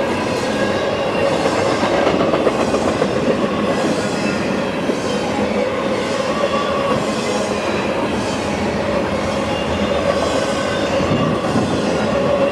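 Freight train cars rolling past at steady speed: a continuous rolling rumble of wheels on rail, with a steady ringing squeal from the wheels over it.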